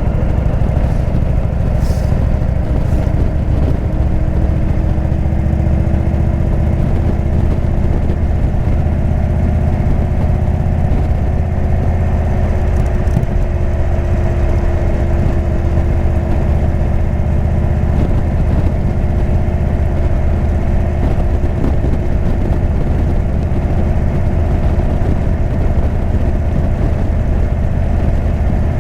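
Indian V-twin motorcycle engine with a Jekill & Hyde exhaust running steadily, its pitch rising slightly a few seconds in and then holding level.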